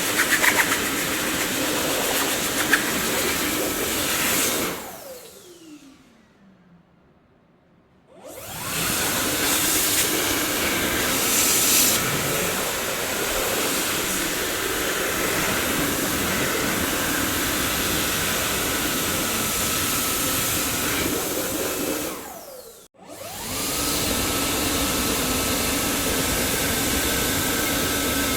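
Dyson vacuum cleaner running with a steady rushing noise and a faint high motor whine. About five seconds in it is switched off and the motor winds down with a falling pitch to near-quiet, then it starts up again about three seconds later; near the end it cuts out again only for a moment and picks straight back up.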